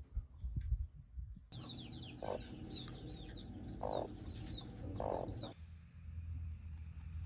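Chickens clucking three times amid many short, high, falling peeping calls. The calls start and stop abruptly, after a few low knocks, and are followed by a steady low hum.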